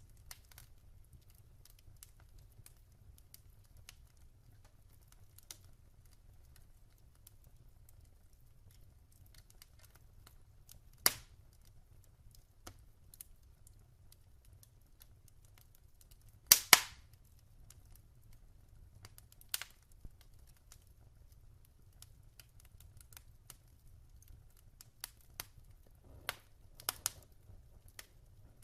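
Wood fire burning in a fireplace, crackling with sparse sharp pops over a low steady rumble. The loudest is a quick double pop about two-thirds of the way in, with a flurry of smaller pops near the end.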